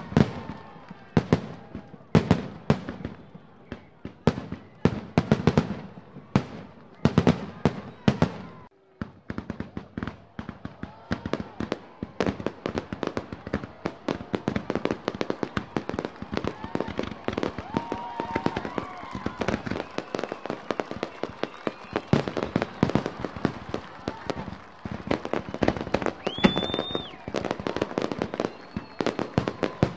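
Fireworks display: sharp bangs a few at a time with short gaps, then from about nine seconds in a dense run of rapid bangs and crackling. Near the end a whistling shell rises and holds a high whistle for about a second.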